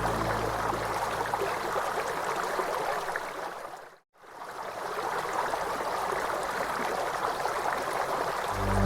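Running water, a steady rushing flow with no music over it. The flow fades down to a moment of silence about four seconds in and fades back up, and low sustained music tones come back in near the end.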